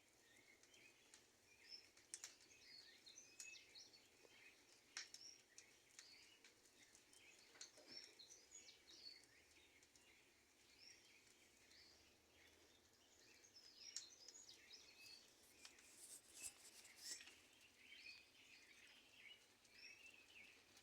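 Faint, busy chirping of small birds, with scattered sharp clicks throughout, more of them a few seconds before the end.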